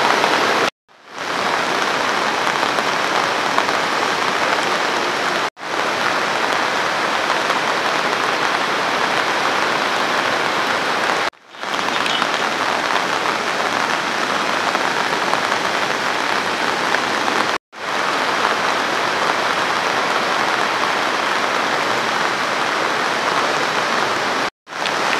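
Steady rain pouring down, a dense even hiss that cuts to silence for an instant five times, roughly every six seconds.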